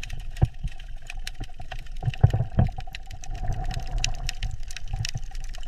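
Underwater ambience: a low rumble with scattered clicks and pops and a faint steady tone.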